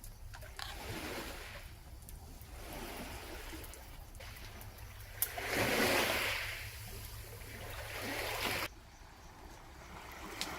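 Sea waves washing up on a beach in repeated swelling and receding surges, the biggest about halfway through; the sound drops away abruptly near the end.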